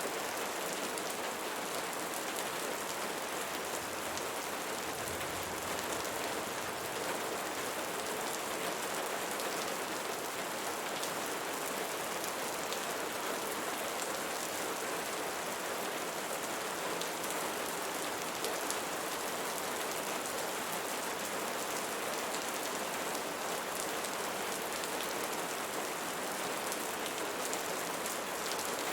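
Steady rainfall, an even patter of many drops landing on a surface.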